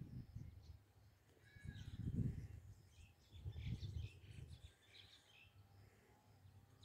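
Outdoor ambience: birds chirping faintly, over low rumbling swells of noise, the loudest about two seconds in.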